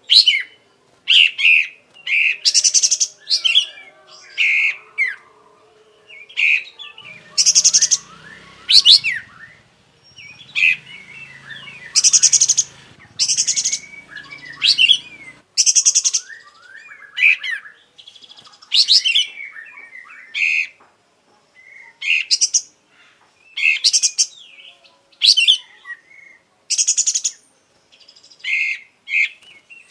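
Kapas tembak songbird singing hard in short loud phrases, about one a second: sharp whistled notes mixed with harsh rapid rattles.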